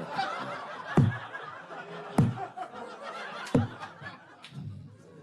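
Audience laughing and tittering after a punchline. Three sharp low thumps a little over a second apart are the loudest sounds, and the laughter dies down near the end.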